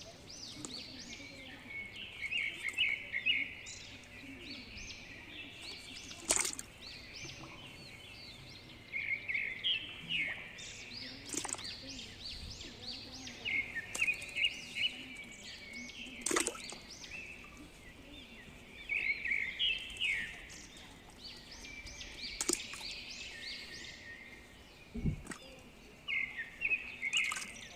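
Birds chirping outdoors, bursts of quick repeated notes every few seconds, with a few sharp clicks or knocks in between.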